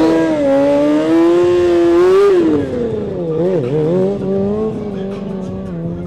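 Sport motorcycle engine held at high revs, then dropping at about two and a half seconds to a lower, wavering pitch as the rider works the throttle to hold a wheelie.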